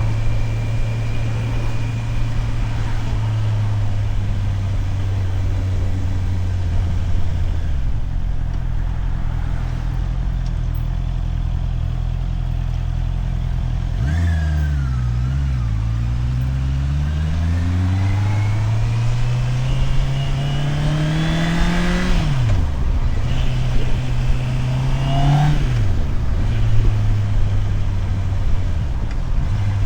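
Motorcycle engine running steadily, then pulling away about halfway through, its pitch rising for several seconds before a sharp drop at a gear change; it climbs again briefly and drops at another shift, then settles back to a steady note.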